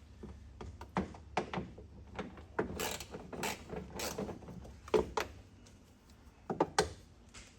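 Socket ratchet clicking in short, irregular runs, with a few sharper metallic knocks, while 10 mm bolts are being backed out.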